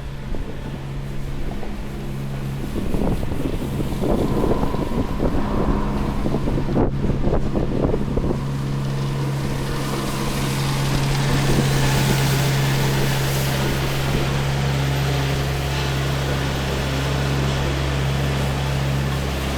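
A vehicle engine hums steadily, with wind noise on the microphone and a rushing swell of noise about halfway through.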